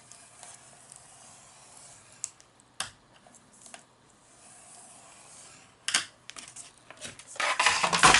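Paper being handled and scored on a scoring board: a few light clicks and taps, then a louder scratchy scraping near the end.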